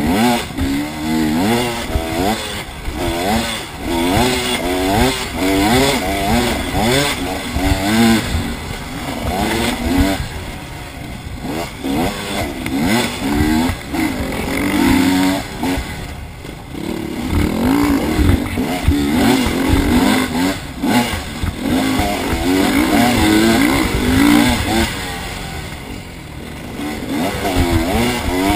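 Motorcycle engine revving hard and backing off over and over while riding, its pitch climbing and dropping every second or two as the throttle opens and closes through gear changes.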